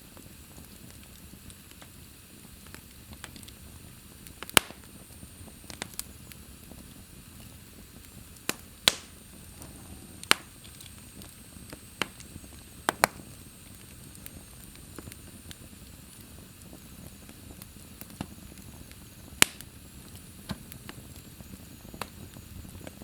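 Wood fire crackling in a fireplace: a soft steady hiss with irregular sharp pops and snaps from the burning logs, a dozen or so, a few of them much louder than the rest.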